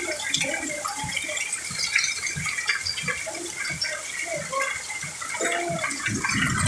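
Heavy rain pouring and splashing in a thunderstorm, with runoff water gurgling and dripping in a dense, irregular patter.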